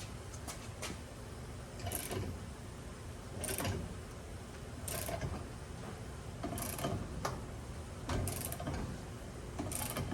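Ratchet turning the screw of a ball joint press as a new ball joint is pressed in. There is a stroke about every one and a half seconds, six in all.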